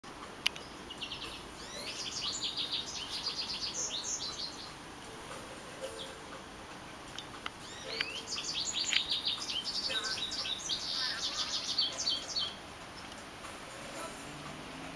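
Bird song: two long bouts of rapid, high-pitched chirps and twitters, one near the start and one in the second half, with a sharp click just before the first.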